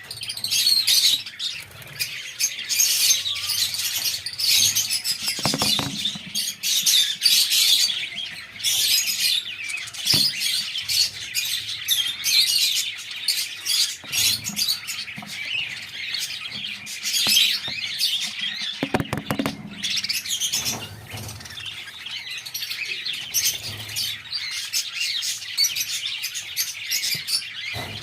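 Caged birds chirping and tweeting without a break, a dense chatter of many high calls, with a couple of brief low thumps about six seconds in and again near twenty seconds.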